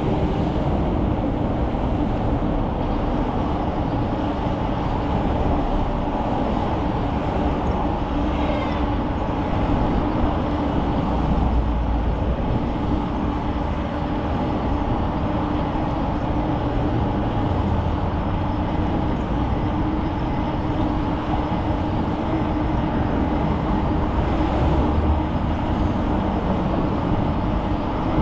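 Bicycle in motion: steady rolling noise from the tyres and low wind rumble on the microphone, with a steady low hum underneath.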